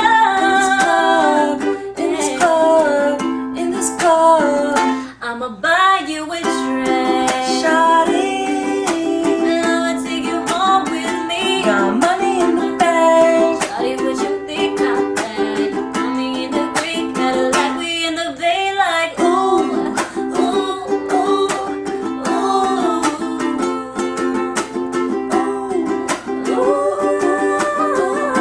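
Ukulele strummed in a steady rhythm, with a voice singing a melody over it.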